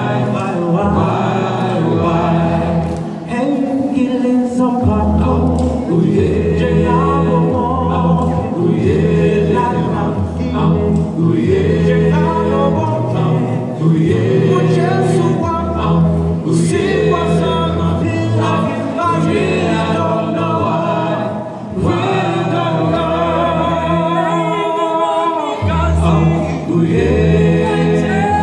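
Vocal group singing gospel a cappella in close harmony, with held chords over a rhythmic sung bass line.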